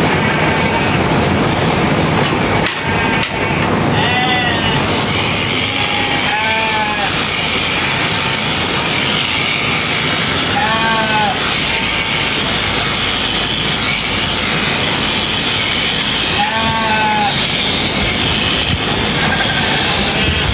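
Sheep bleating about four times, short arched calls a few seconds apart, over the steady whirr of electric sheep-shearing clippers.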